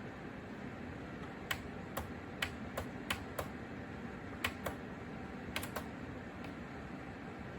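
Small ceramic fan heater's fan running with a steady rushing hum, while about ten sharp clicks come in small, irregular clusters in the middle.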